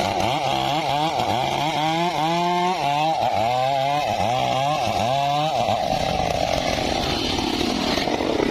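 Engine-powered saw cutting timber, its engine pitch dipping and recovering about twice a second for the first five seconds or so, then running steadily.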